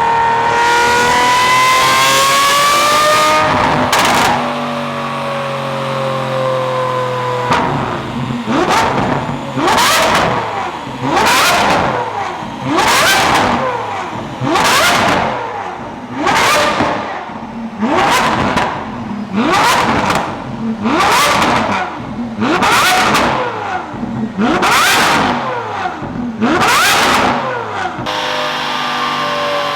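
Lamborghini Aventador V12 engine revving hard: held at a steady, slowly rising pitch for the first few seconds, a sharp crack about four seconds in, then revved up and let fall over and over, about a dozen times at an even pace.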